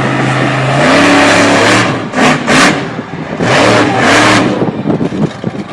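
A car engine held at a steady note, then revved hard as the car accelerates away. The note rises and drops several times in loud surges before fading.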